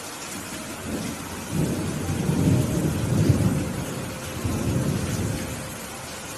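Thunder rumbling over steady rain. The low rolling rumble builds about a second and a half in, peaks near the middle, swells once more and fades before the end.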